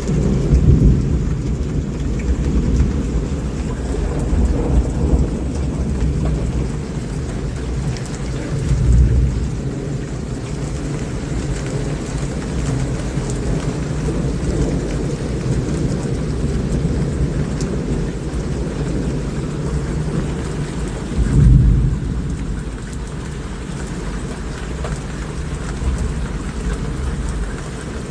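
Steady heavy rain with rolling thunder rumbling through it; the biggest rumbles come near the start, about nine seconds in and about twenty-one seconds in.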